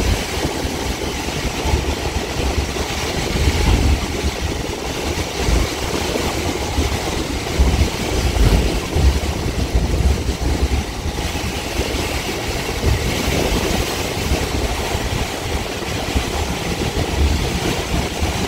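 Caltrain gallery cab car running along the track, heard from inside the cab: a steady rumble of wheels on rail and train running noise, with the low end rising and falling unevenly.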